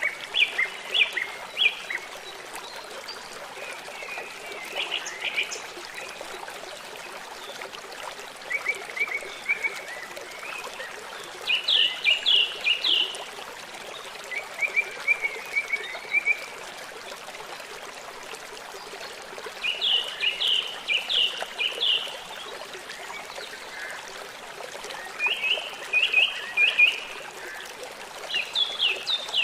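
Birdsong in short phrases of quick, sharp repeated notes, recurring every few seconds, over the steady rush of a stream.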